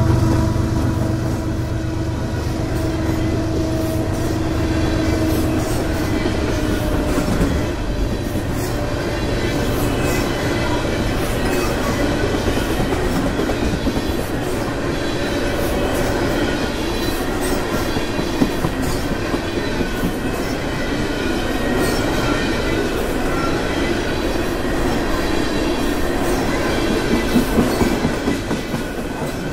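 A diesel freight locomotive rumbling past for the first several seconds, then a long string of railroad tank cars rolling by: steady clickety-clack of steel wheels over rail joints with a faint thin wheel squeal.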